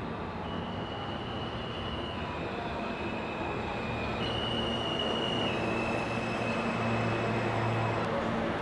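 Vintage New York subway train running on the track: a steady rumble and low hum, with high held tones that shift up and down in pitch every second or two, growing slightly louder.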